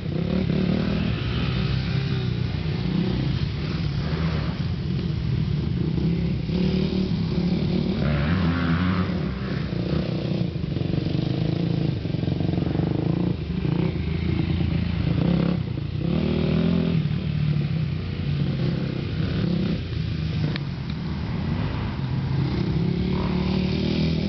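Dirt bike engine running and revving, its pitch rising and falling over and over, with a few brief dips in between.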